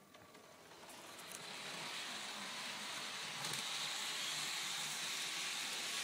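Märklin model train running along the track, a steady whirring hiss that grows louder over the first two seconds as it comes closer, then holds.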